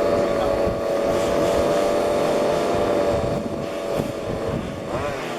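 Small two-stroke petrol engines of 1:5 scale RC cars running on the track, a steady high engine tone; from about five seconds in, several engines rev up and down as cars accelerate and pass.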